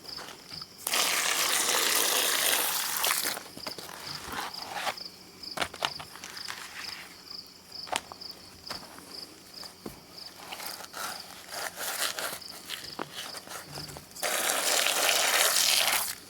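Two bursts of loud hissing, each about two seconds long, one near the start and one near the end. Between them come scattered light clicks, and an insect chirps steadily in short, even pulses throughout.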